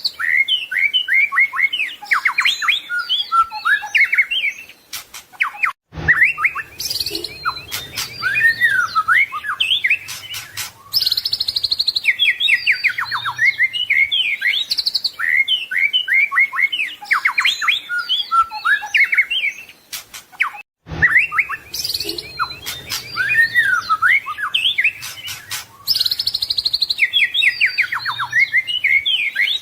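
White-rumped shama singing a long run of rapid, varied whistles, trills and chirps, its full song with mimicked phrases, broken by brief sudden gaps about six seconds in and again near twenty-one seconds.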